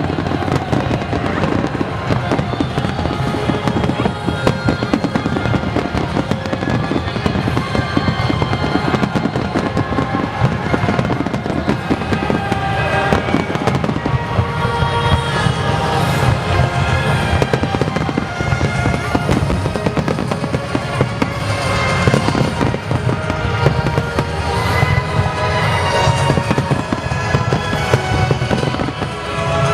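Fireworks bursting in dense, rapid succession, with crackling, over music played for the show.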